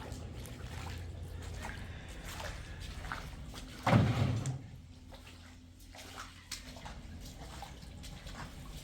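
Water sloshing and splashing, with small clicks and one heavy thump about four seconds in.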